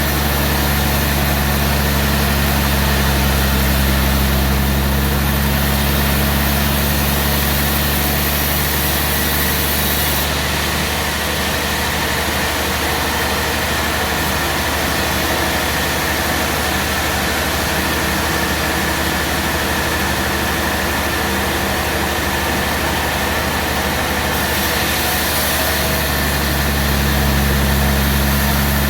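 Portable band sawmill's engine running steadily, with its tone shifting about a third of the way in and again near the end.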